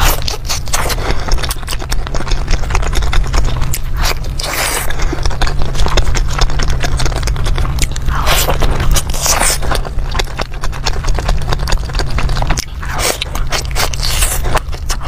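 Close-miked biting and chewing of crispy fried skewer food: dense crunching crackles, with several louder bites spread through.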